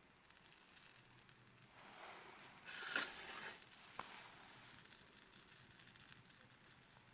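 Faint rustling and scraping, with a louder scrape about three seconds in and a single sharp click about a second later.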